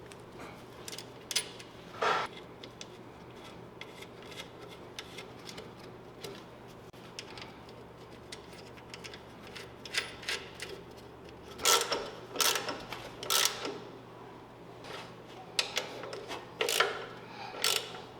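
Scattered clicks and light metallic knocks from hand work on the truck and engine, coming in quick clusters about twelve seconds in and again near the end, over a faint steady hum.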